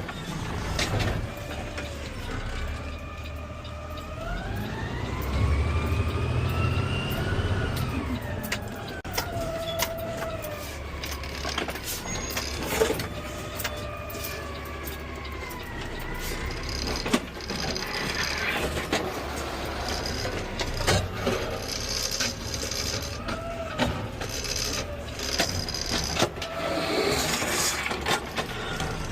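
Peterbilt 520 CNG garbage truck with an Amrep automated side-loader running, a whine rising and falling in pitch over the engine's low rumble, with scattered clanks and knocks.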